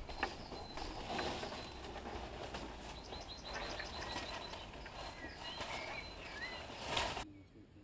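A bird chirping several times over steady outdoor noise, with scattered clicks and rustles as plastic conduit is handled. The sound cuts off suddenly near the end.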